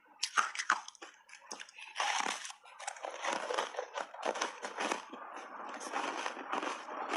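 Frozen blueberry ice being bitten and chewed, with a few sharp crunching bites in the first two seconds and then continuous grinding crunches of ice in the mouth.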